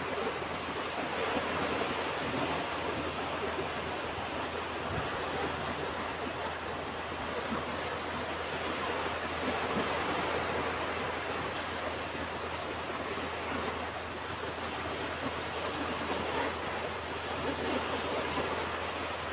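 Ocean surf washing on a beach: a continuous steady rush of waves with no single distinct crash.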